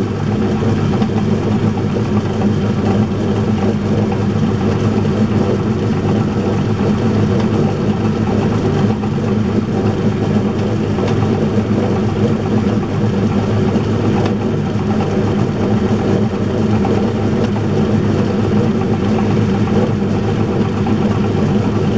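Myford lathe running steadily at speed with a milling cutter held in its chuck, taking a gentle cut in a steel plate. The machine sound is steady and even in pitch throughout.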